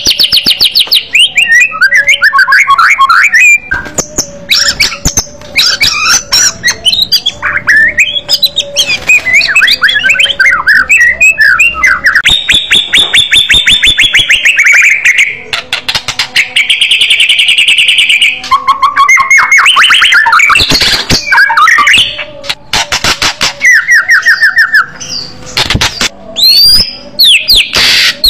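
White-rumped shama (murai batu) singing loudly and continuously: rapid trills, sweeping whistles and harsh bursts of notes, broken by many sharp clicks.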